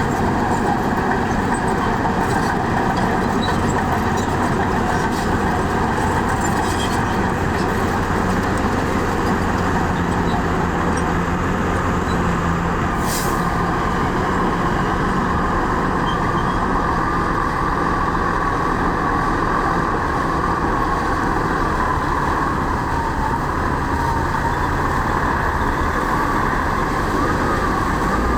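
Heavy diesel construction machinery, a bulldozer or dump truck, running steadily under load, with a wavering whine coming in about halfway through.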